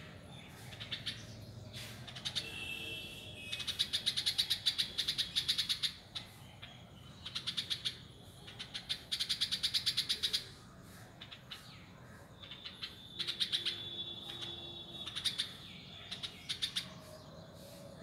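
Birds chirping in several bursts of rapid, chattering trills, each lasting one to a few seconds with short pauses between, and a few brief whistled notes mixed in.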